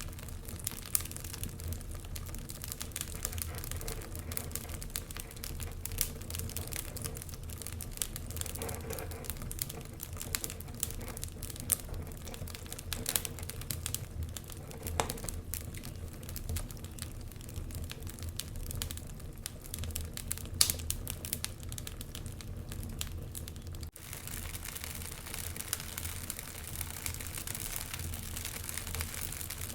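Wood fire crackling in a fireplace: irregular sharp pops and snaps over a steady low rumble of the flames. The pops are sparser for the last few seconds.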